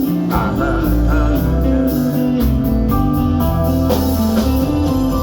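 Live band playing an instrumental passage of a slow soul ballad between sung lines: bass and guitar holding long notes over a steady cymbal beat.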